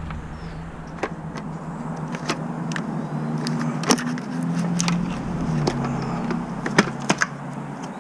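Scattered sharp clicks and clacks of motorcycle parts and tools being handled, over a steady low hum that shifts in pitch a few times.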